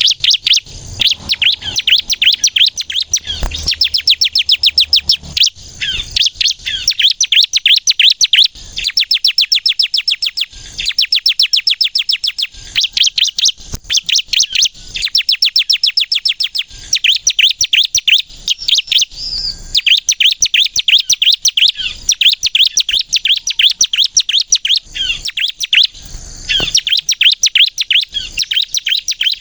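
Ciblek kristal (bar-winged prinia) singing at full pitch: rapid high chirps run together in fast trilled phrases, broken by short pauses, almost without let-up.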